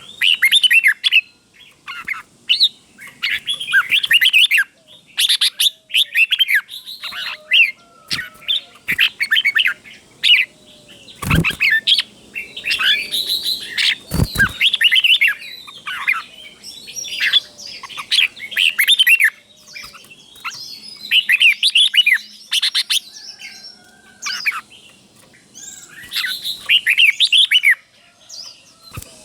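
Red-whiskered bulbul singing, with short warbling song phrases repeated in quick succession. Two sharp knocks come about 11 and 14 seconds in.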